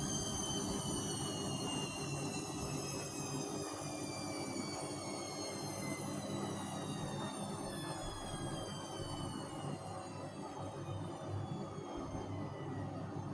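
Vestel CM8710 washing machine in its final spin, the motor's whine falling slowly and steadily in pitch as the drum winds down, over a steady low hum.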